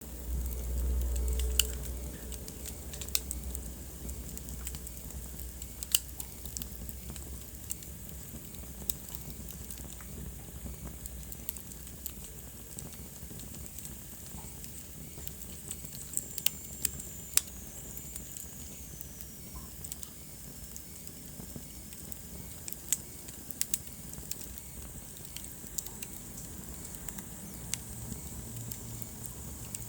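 Wood fire crackling in a fireplace: irregular sharp pops and snaps over a steady low hiss and rumble, the rumble strongest in the first second or two. A faint falling whistle comes about halfway through.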